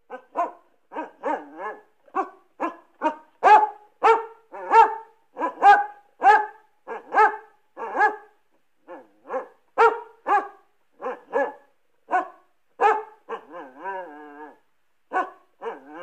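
Cartoon dog barking sound effect: a long run of short barks, about two a second, with a longer wavering call about fourteen seconds in.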